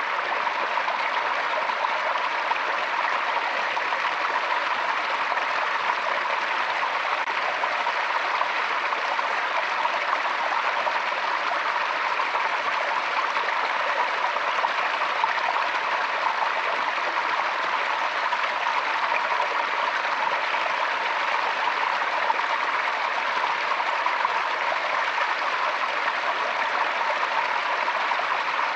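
Forest stream flowing steadily, water running and splashing over rocks in a constant rush.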